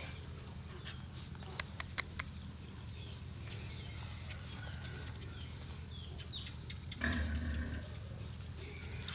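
Animal sounds over a steady low hum: a few sharp clicks about two seconds in, faint high squeaks, then a short, louder low-pitched call about seven seconds in.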